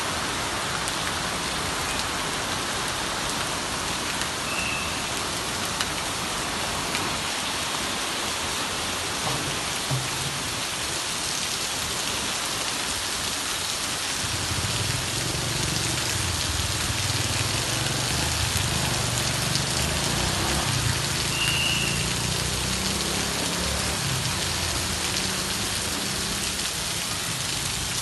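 Heavy rain falling steadily on a street and pavement, with water pouring off a roof edge. From about halfway through, the low rumble of a passing motorbike and car engine runs under the rain.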